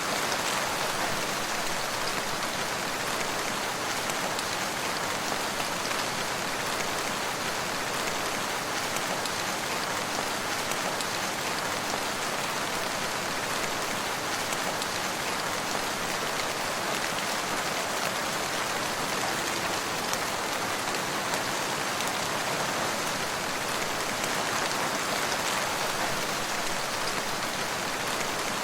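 Steady rain falling on a surface, an even hiss of many drops with no change in intensity.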